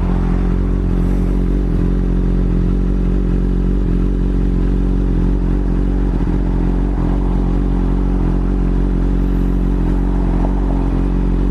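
Motorcycle engine running at a steady, unchanging speed, its note even with no revving, under a haze of wind and road noise, heard from the rider's own BMW S1000RR, an inline-four sportbike.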